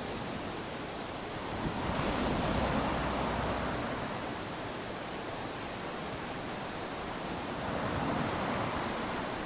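Small ocean waves lapping onto a sandy shore, a steady wash of surf that swells twice, about two seconds in and again near the end.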